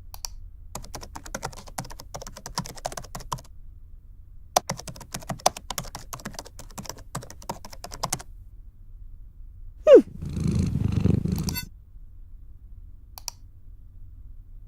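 Typing on a computer keyboard: two runs of quick key clicks. About ten seconds in comes a short, loud falling tone, then a low rough noise lasting about a second and a half.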